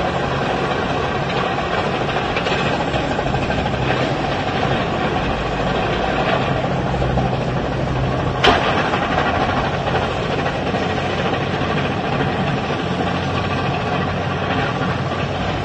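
Bulldozer's heavy diesel engine running steadily, with a single sharp crack about eight and a half seconds in.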